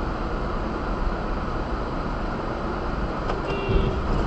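Steady road and engine noise of a moving vehicle, heard from inside as a dashcam picks it up, with a faint short pitched sound near the end.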